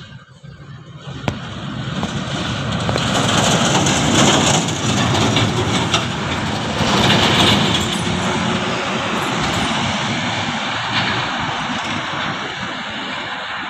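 Heavy truck running on the road, its engine and road noise building over the first few seconds, loudest around the middle, then slowly easing off.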